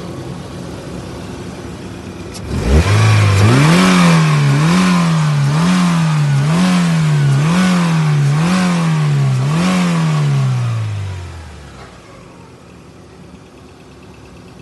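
Chevrolet Aveo 1.6-litre four-cylinder engine revving: the throttle is blipped up and down about once a second for some seven seconds, then the revs die away.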